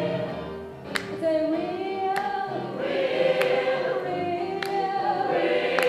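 Gospel choir singing in parts, with a sharp beat marking time about every second and a quarter.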